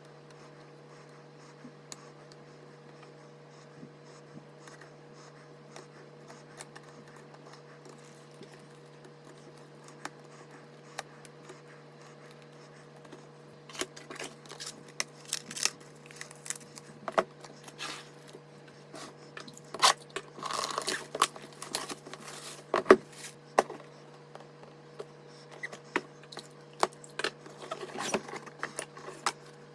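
Hands handling PC parts and packaging: scattered clicks, scrapes and rustles, busiest in the second half, over a steady low hum.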